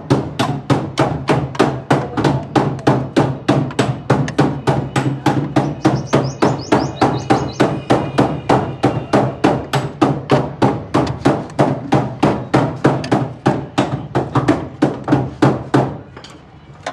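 Sharp, regular knocking, about three knocks a second, over a steady low hum; both stop shortly before the end.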